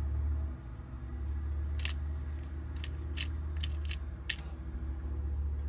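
About six light, sharp metal clicks from small lock wafers and tools being handled while a Honda door lock cylinder is recoded, over a steady low hum.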